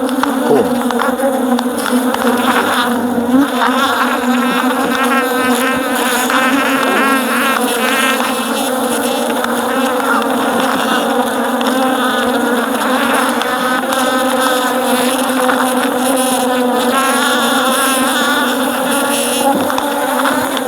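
A mass of honeybees buzzing loudly and continuously, with single bees' whines rising and falling as they fly close by: a colony stirred up by its hive being opened for inspection.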